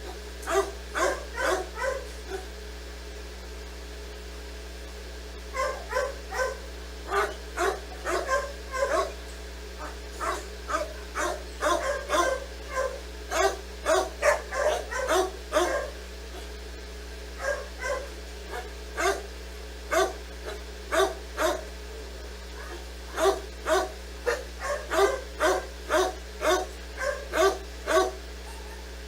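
A dog barking in runs of quick, short barks, about two to three a second, with a few pauses between runs, over a steady low hum.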